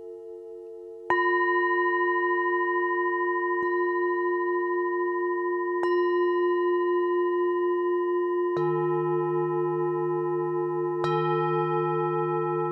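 Tibetan singing bowls struck one after another, four strikes, each starting a clear ringing tone that holds and overlaps with the others. Some tones waver slowly, and a lower bowl joins about two-thirds of the way through.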